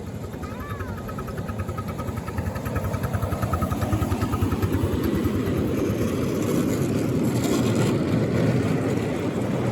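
5-inch gauge miniature locomotive drawing nearer, its rapid, even pulsing growing louder over the first five seconds and then holding steady.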